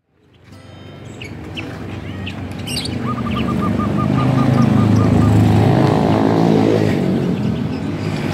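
A motor vehicle engine draws closer and passes, growing louder to a peak about halfway through. Birds chirp over it, one giving a quick trill of about ten pips about three seconds in.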